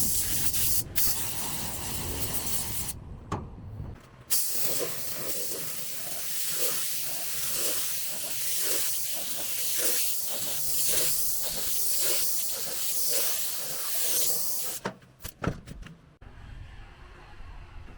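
Compressed-air paint spray gun hissing. It pauses briefly about three seconds in, then sprays steadily, swelling and fading in an even rhythm, before cutting off about fifteen seconds in with a few clicks.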